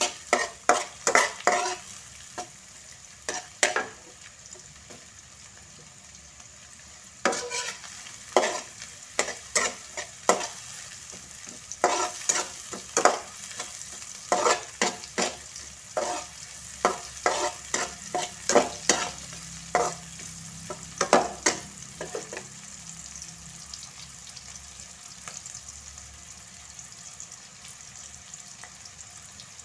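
Sliced shallots, garlic, ginger and whole spices sizzling steadily in hot oil in a wok while a metal slotted spatula scrapes and knocks against the pan in quick stirring strokes. The stirring pauses for a few seconds, resumes, and stops about two-thirds of the way through, leaving only the sizzle; the shallots are being fried until soft, not crisp.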